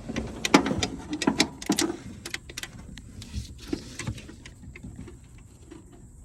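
Metal hand tool clicking and clattering against the fuel pump's mounting nut and the engine block while it is worked onto a hard-to-reach nut. A quick run of irregular clinks in the first two seconds, then scattered single clicks.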